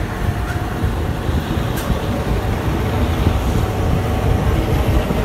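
Passenger train carriage rolling along the track, heard through an open window: a steady, deep rumble of the running train mixed with wind noise, getting slowly louder.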